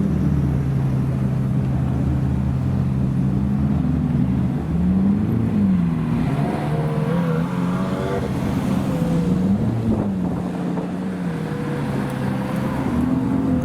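Supercar engine running steadily, then revved up and down several times from about four seconds in.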